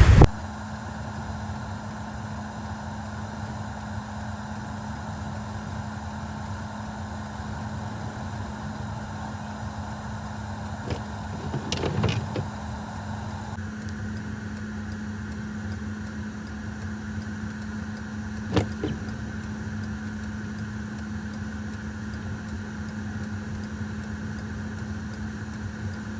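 Steady vehicle engine and cabin hum with a constant low drone, as from a car idling. A few brief knocks about eleven to twelve seconds in and a single sharp knock near eighteen seconds in.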